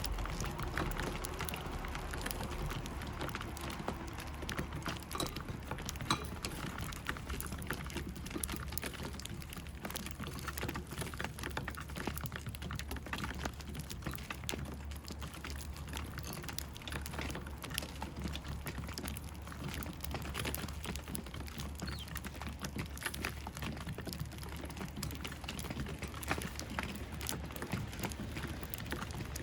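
Eurasian tree sparrows feeding: a steady patter of many small clicks and taps from beaks pecking at food, over a low steady hum.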